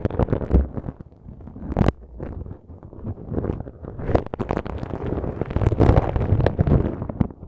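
A flat feather earpick brushing and rubbing over a microphone: irregular rustling strokes with low rumbles and a few sharp clicks.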